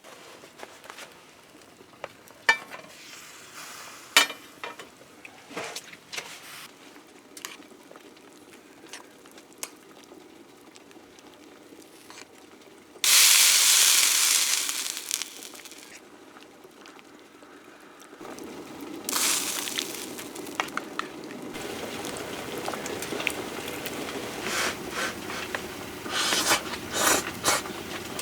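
Food sizzling in a hot pan over a camp fire, with a few knocks and clicks at first. A sudden loud sizzle about halfway through fades over a few seconds. A second one starts soon after and keeps going with spitting crackles.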